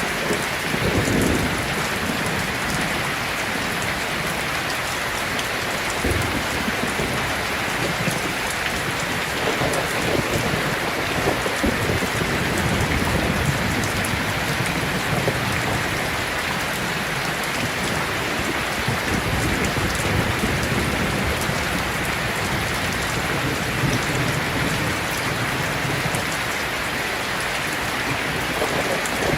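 Heavy rain falling steadily, with low rumbles of thunder rising and fading every few seconds.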